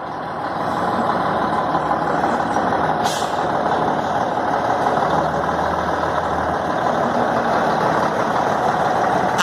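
Heavy truck's diesel engine running steadily, with a brief high hiss about three seconds in.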